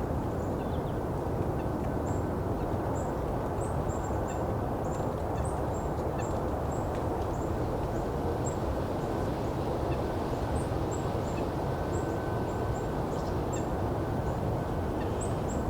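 Golden-crowned kinglets giving many short, very high-pitched thin call notes, scattered irregularly throughout, over a steady low background rumble.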